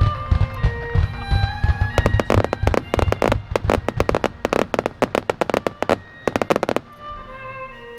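Fireworks barrage: a rapid run of deep booming shell bursts, then a fast string of sharp cracking reports, over orchestral music. The bursts stop abruptly about a second before the end, leaving the music.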